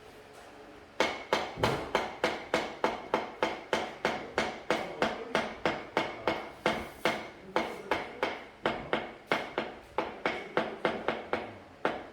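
A hammer striking repeatedly in a steady rhythm of about three blows a second, each with a short metallic ring. The blows start about a second in.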